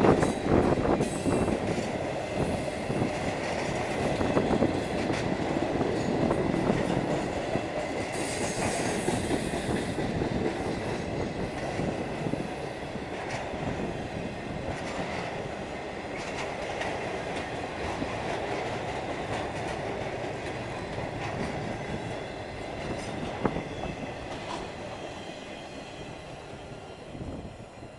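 CSX intermodal freight train rolling past, its steel wheels clacking over rail joints with some high squealing, the rumble slowly fading toward the end.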